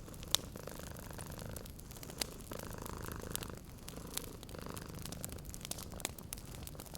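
A cat purring steadily, in swells about a second long with each breath, over a wood fire crackling with sharp scattered pops.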